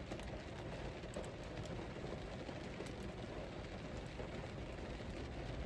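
Steady low background hum and hiss with a few faint, light clicks, likely from handling the food containers.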